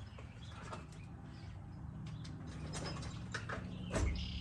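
Hand ratchet clicking in short, irregular runs while a headlight mounting screw is worked in a tight spot, with a louder knock about four seconds in.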